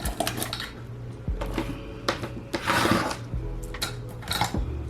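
Small items such as razors and combs clicking and clattering as they are handled and dropped back into a cup, a string of separate light knocks with a longer rustle about three seconds in, over a steady low hum.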